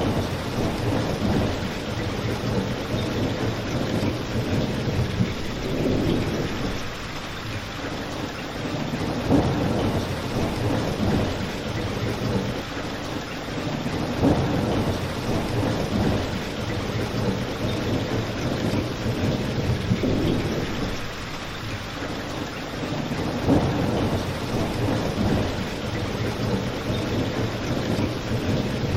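Steady rain in a rain-and-fireplace ambience, with a low rumble that swells and fades every few seconds. A few sharp crackles from the fire stand out above it.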